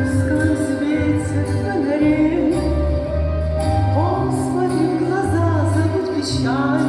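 Russian pop song with a sung melody over a steady bass line and a beat.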